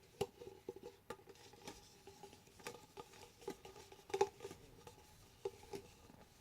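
Plastic mixing cups being handled and set down: scattered light taps, clicks and rustles at an uneven pace, over a faint steady hum.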